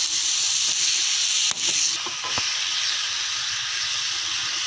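Onion and spice masala sizzling steadily in oil in a metal pan while being stirred with a metal spatula, which knocks against the pan a few times around the middle.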